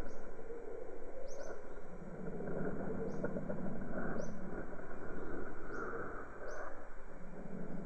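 Birds giving short, high, upward-flicking chirps about once a second, over a steady bed of jungle background noise.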